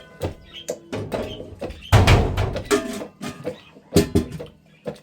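A run of sharp knocks and clinks, some briefly ringing like struck metal, with one heavier thud about two seconds in.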